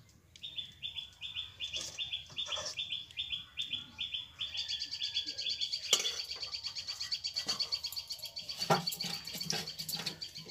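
Small birds chirping: one repeats a short high note about three times a second, and about halfway through a second, faster and higher chirping joins it. A few sharp knocks sound in between, the clearest near the middle.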